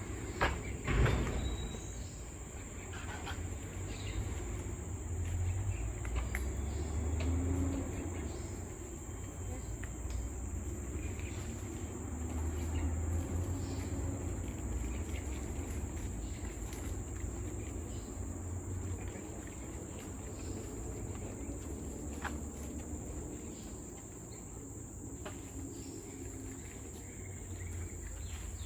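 Steady high-pitched drone of insects in tropical forest, over a low rumble, with scattered sharp clicks, the loudest about a second in.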